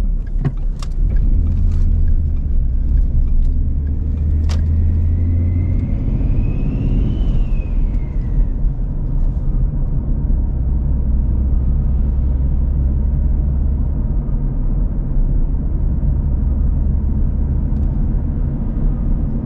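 Turbocharged V6 Mustang driving, its engine running with a steady deep rumble. There are a few sharp clicks in the first few seconds, and a whistle rises and then falls about midway.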